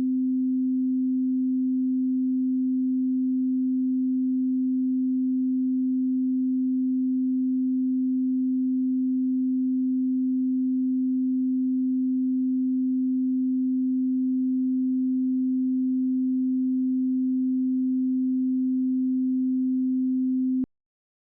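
A steady 258 Hz pure sine tone, a single-frequency audio test signal, that cuts off abruptly with a faint click near the end.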